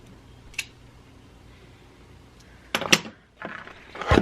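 A few sharp clicks and knocks of objects being handled: a single click about half a second in, then a clatter of knocks from past halfway, the loudest just before the end.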